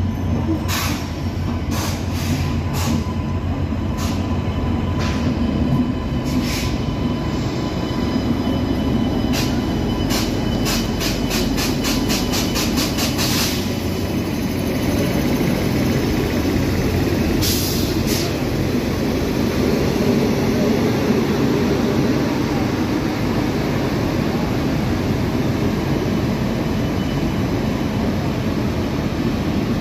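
Express train led by a WAP-7 electric locomotive running into a station: a steady low rumble of the locomotive and coaches, with scattered sharp clicks and, about halfway through, a quick even run of clicks from the wheels crossing rail joints.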